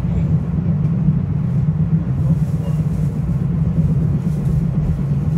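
Steady low rumble of a Metro-North Hudson Line commuter train running, heard from inside the passenger car.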